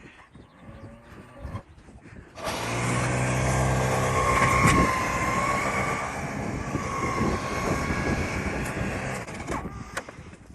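Battery-powered SnowJoe 100-volt two-stage snowblower. It is quiet at first, then its electric motor starts suddenly about two and a half seconds in and runs with a steady whine and low hum while clearing deep snow, easing off near the end.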